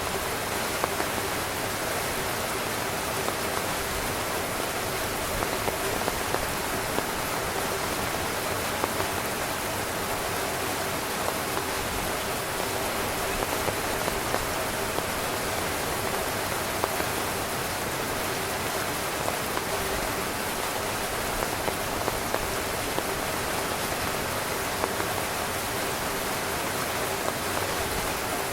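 Steady heavy rain drumming on a tent, a continuous hiss with many small drop taps scattered through it.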